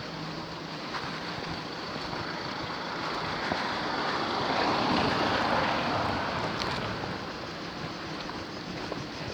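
A vehicle passing by: a rush of engine and tyre noise that swells, peaks about five seconds in and fades away, over steady traffic background.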